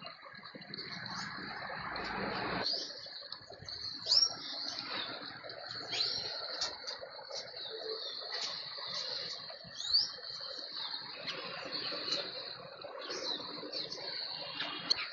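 Birds chirping with short, sharp rising calls, the loudest about four, six and ten seconds in, over a steady high insect drone like crickets.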